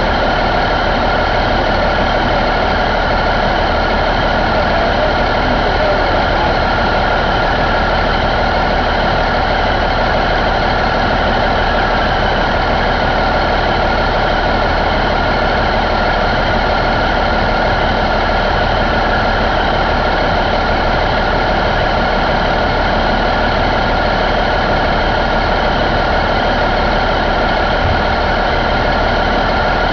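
Cummins N14 CELECT inline-six diesel engine running at a steady speed.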